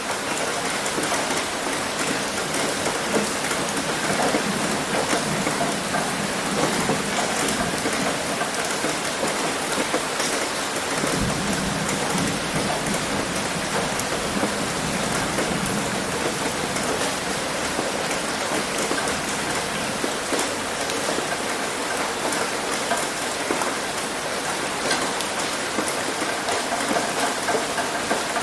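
Heavy rain falling steadily on a roof, a dense even patter. A low rumble comes in for a few seconds about a third of the way through.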